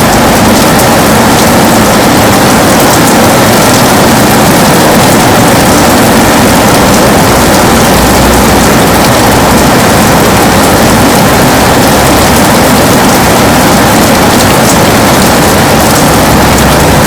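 Heavy rain pouring steadily, loud and dense with fine drop ticks against a window.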